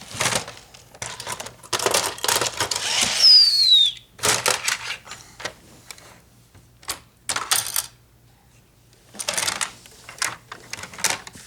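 Hard plastic and die-cast toy cars clacking and clattering against each other and a surface in quick, irregular knocks, loudest about two to four seconds in. A short falling whistle-like squeal comes partway through.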